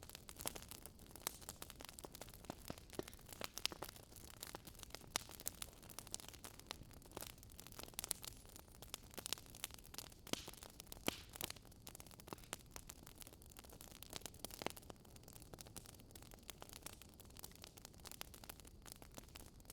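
Campfire crackling softly: a steady stream of small irregular pops and snaps over a low hiss.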